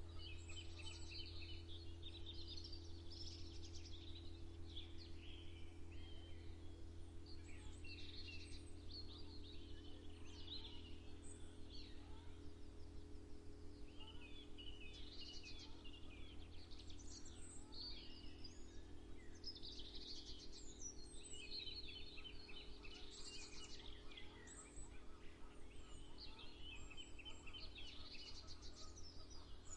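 Several songbirds chirping and trilling in overlapping calls of an early-morning chorus, over a steady low hum.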